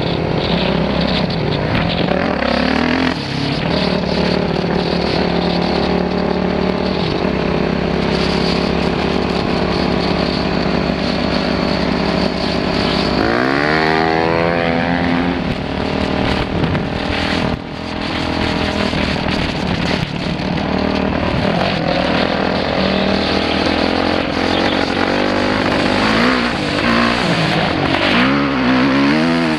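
Dirt bike engine running while being ridden, mostly at steady revs, with a sharp climb in revs about halfway through and more rising and falling near the end.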